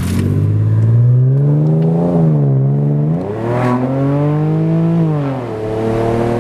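Audi A6 3.2's V6 engine, freshly refilled with oil, revved three times, its pitch climbing and dropping back each time, then settling into a steady run near the end.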